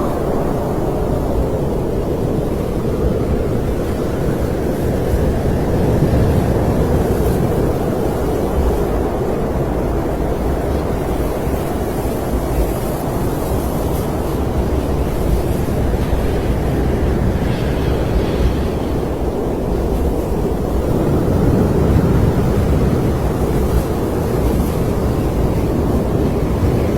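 Snowstorm wind blowing hard and steadily, a deep rush that swells and eases, with faint whistling tones that rise and fall.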